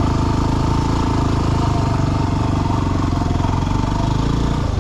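Yamaha WR250R's single-cylinder four-stroke engine running steadily as the dual-sport bike rides a rough mountain trail.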